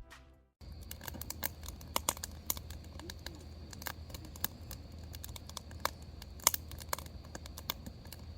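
Irregular crackling and popping clicks, scattered unevenly over a low steady hum, starting about half a second in.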